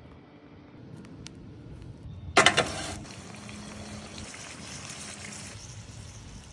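Loud hiss bursting up about two and a half seconds in, then settling into a steady sizzle on a hot grill.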